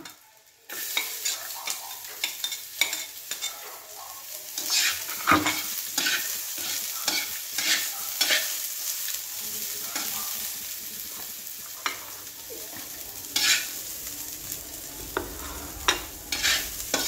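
Chopped onion and garlic sizzling in hot oil in a metal frying pan. The sizzle starts suddenly just under a second in as the onion goes into the oil, with a spatula scraping and knocking against the pan as it is stirred.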